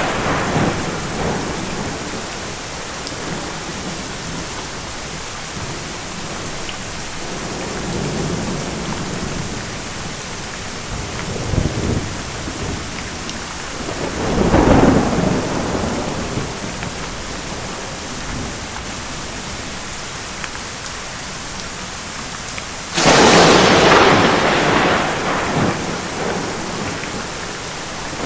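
Steady heavy rain with rolling thunder: a roll fading at the start, low rumbles around a third of the way in, a louder rumble at about the halfway point, and a sudden loud clap about 23 seconds in that rolls on and fades.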